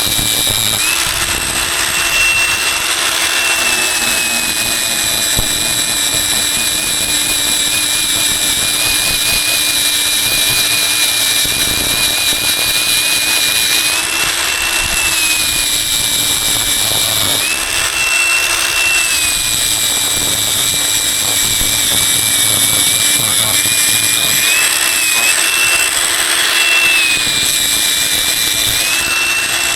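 A power tool's electric motor running continuously with a steady high whine, its pitch dipping and recovering every few seconds as if under changing load.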